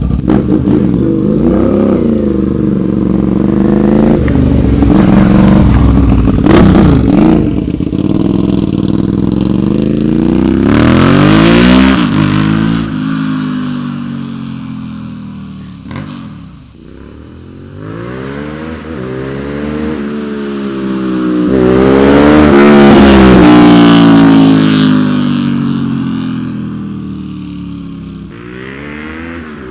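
A 650 cc naked motorcycle being ridden hard, its engine revving up and down through the gears. It is loudest twice, about twelve seconds in and again a little past twenty seconds.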